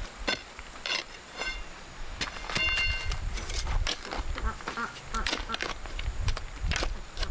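Ducks quacking in short calls, among scattered clicks and knocks.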